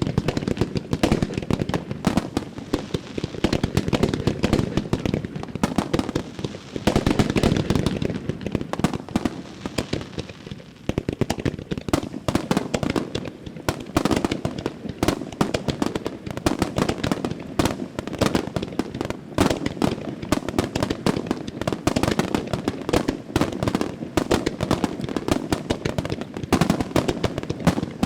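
Fireworks starmine display: a continuous barrage of shells launching and bursting, dense bangs and crackling over a low rumble, with a brief lull about ten seconds in.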